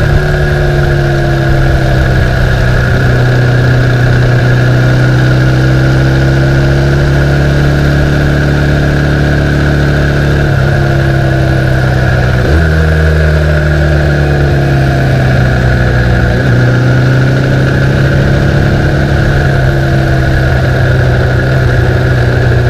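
A 1972 Norton 750 short-stroke parallel-twin engine running steadily. Its pitch slowly rises and falls, with short dips about ten and a half, twelve and a half and sixteen and a half seconds in.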